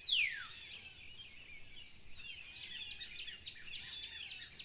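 Wild birds singing: a clear whistled note falling in pitch at the start, then a run of short, quick chirps.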